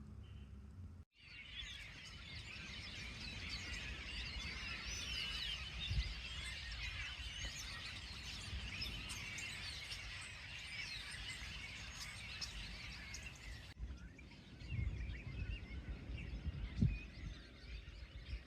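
Many birds chirping at once, a dense chorus of short overlapping chirps that cuts off abruptly near 14 s. After that come a few sparser chirps over some low thumps.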